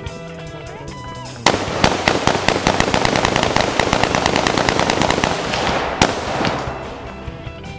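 Music, then a long burst of rapid gunfire, many shots a second, starting about a second and a half in and dying away near the end.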